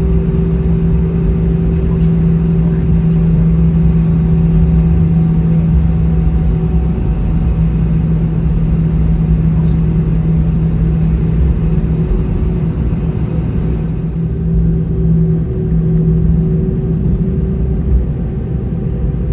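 Airbus A320 cabin noise while taxiing after landing: a steady rumble from the CFM56 engines at idle and the rolling undercarriage, with a constant low hum.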